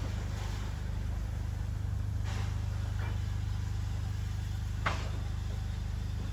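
Steady low rumble of a train running on the line, with a few sharp clicks, the loudest about five seconds in.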